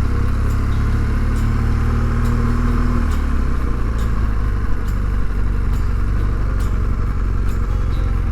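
Motorcycle engine running under way, a steady low drone; about three seconds in its note changes and drops.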